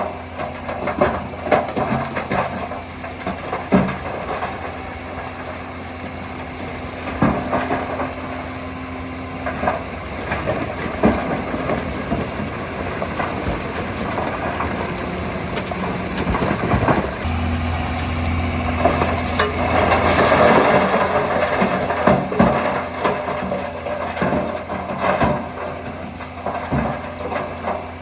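Heavy diesel earthmoving machinery running steadily, with repeated clanks and knocks. About 17 seconds in the engine note deepens and strengthens, and a rushing noise follows for a few seconds, like earth being pushed or tipped.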